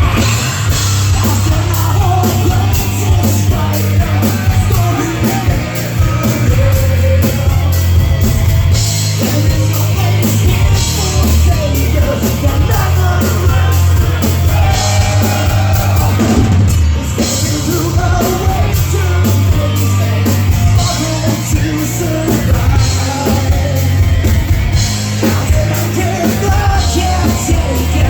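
Live heavy rock band playing loud, with distorted guitars, bass, a pounding drum kit and shouted vocals.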